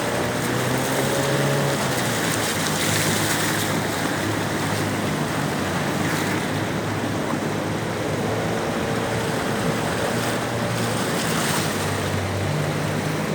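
A small boat's motor running steadily under way, over the even rush of river rapids and wind on the microphone.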